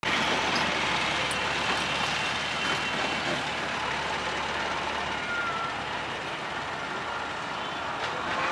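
Steady rumble and hiss of an express passenger train hauled by a WAP-5 electric locomotive, approaching head-on.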